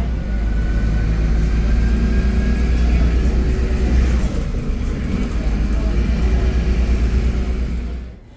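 Steady low rumble of a moving vehicle heard from inside, with a faint high whine above it; it cuts off abruptly near the end.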